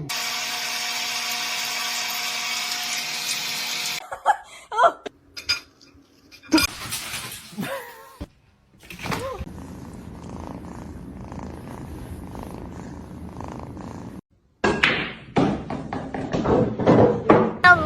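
Cat meowing in a few short rising-and-falling calls, between abrupt cuts to a steady hum and other noises.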